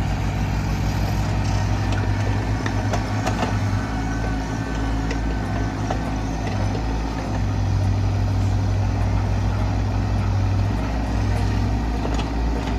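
Engine running steadily with a low, pulsing rumble, with scattered clanks and knocks over it.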